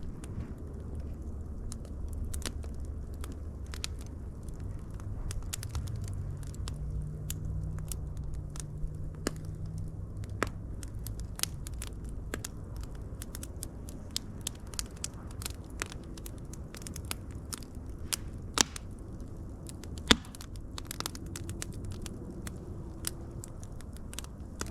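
Wood fire crackling: irregular sharp pops and snaps over a steady low rumble of flame, with a couple of louder pops in the second half.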